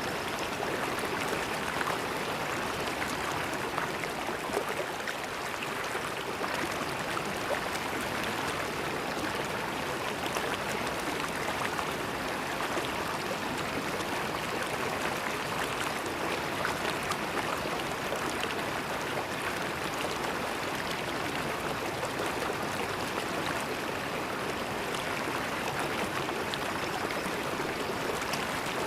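River water flowing steadily: a constant rush of moving water flecked with small splashes.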